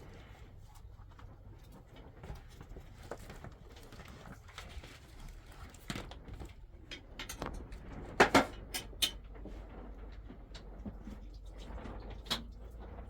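Scattered knocks and clatters of things being handled, the loudest a quick pair of sharp knocks about eight seconds in, over a low steady background hum.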